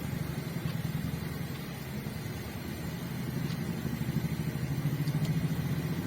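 An engine idling steadily with a fast, even pulse, growing a little louder in the second half, with a couple of faint ticks.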